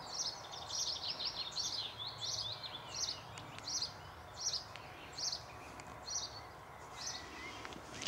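Songbird singing high, quick chirps: a dense run of notes over the first couple of seconds, then short chirped phrases repeated about every three-quarters of a second.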